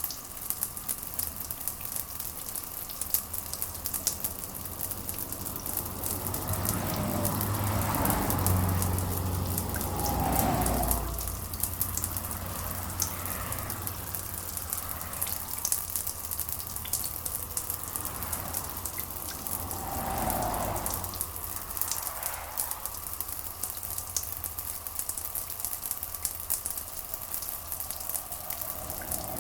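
Steady rain, a dense patter of drops over an even hiss. Twice a slow low rumble swells up and fades, about a quarter of the way in and again about two-thirds in.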